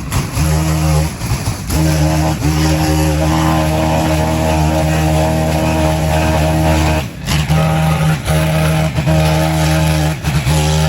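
Small gasoline engine running at high revs, its pitch dropping off briefly about seven seconds in and again near the end before picking back up.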